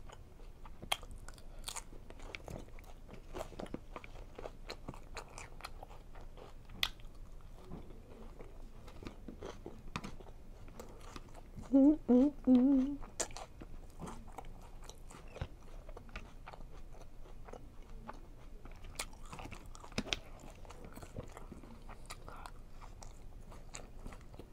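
Close-up chewing and crunching of a Cobb salad with crispy chicken pieces, with many small clicks of a fork against a plastic salad bowl. About halfway through comes a short hummed "mm-mm" of enjoyment.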